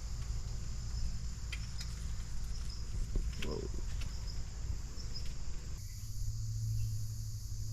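Steady, high-pitched chorus of insects over a low background rumble, with a few light clicks.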